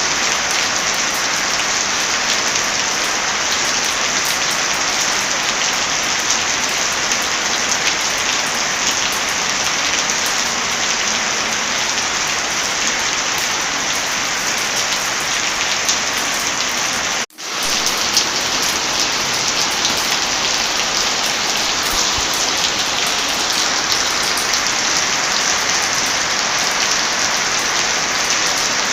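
Heavy rain falling steadily, with fine crackling ticks mixed through it, fitting a crackling fireplace. The sound cuts out for a split second about two-thirds of the way through.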